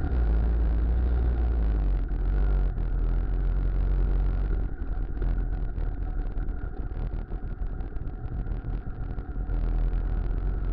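The single-cylinder two-stroke engine of a Muravey motor tricycle running steadily with a deep drone. Through the middle few seconds the sound turns choppier and a little quieter before steadying again.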